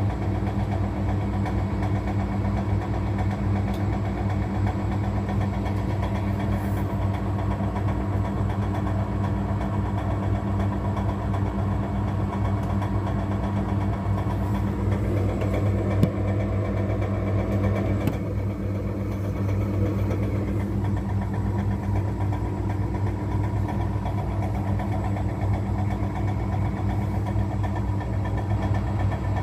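Washing machine running with its drum turning: a steady low hum with a fast, regular knocking from inside the drum, which the owner takes to be a sign that something in the drum is bent. One sharper knock comes about halfway through.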